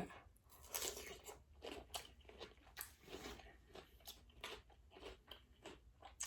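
Faint close-up eating sounds: a person biting and chewing food, with soft, irregular crunches and mouth noises.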